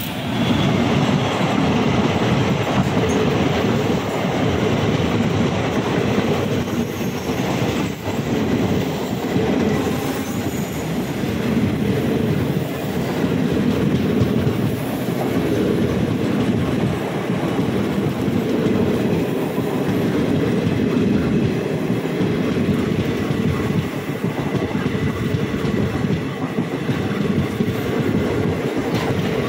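Mewar Express passenger coaches running along the track: a steady rumble of wheels on rails with a rhythmic clatter over the rail joints.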